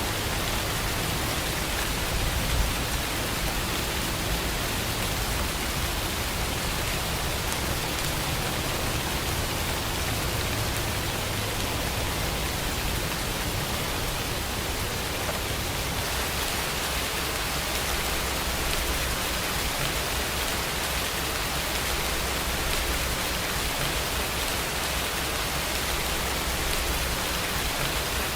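Steady rainfall: a dense, even hiss of falling rain, with a low rumble underneath.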